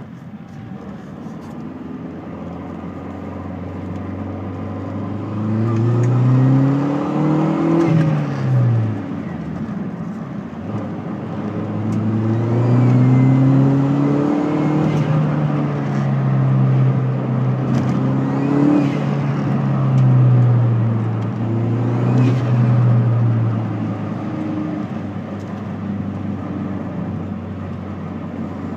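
A motor vehicle's engine revving up and down several times, its pitch rising and falling in long sweeps. The loudest revs come about six seconds in and again between twelve and twenty-two seconds.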